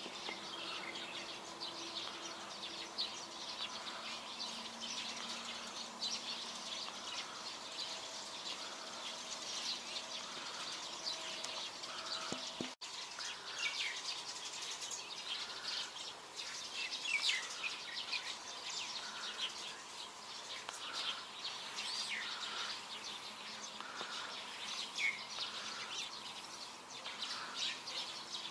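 Many birds chirping outdoors: short, high, overlapping calls, with a softer call repeating steadily about once or twice a second underneath. The sound briefly cuts out about halfway through.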